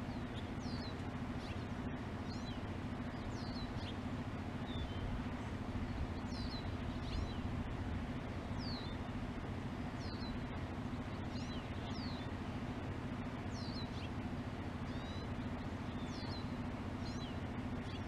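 A small songbird chirping repeatedly, short high falling notes about once a second, over a steady low hum.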